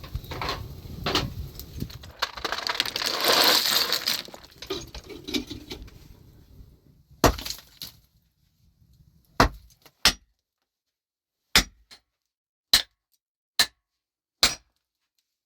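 Several seconds of scraping and clattering, then seven sharp, hard strikes at irregular intervals of about a second, each cut off quickly.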